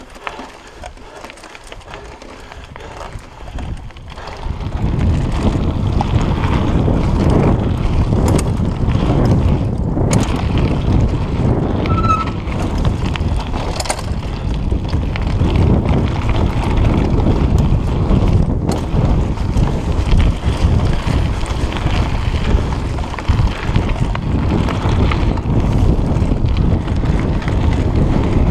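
Wind buffeting a chest-mounted GoPro's microphone, together with the rumble and rattle of a mountain bike riding downhill over a dirt trail. The noise gets much louder about four or five seconds in as the bike picks up speed, with a few sharp knocks from bumps.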